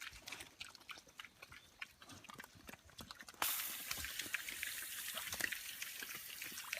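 Young piglets grunting and snuffling with small scattered noises; about three and a half seconds in, a steady hiss starts suddenly and continues under them.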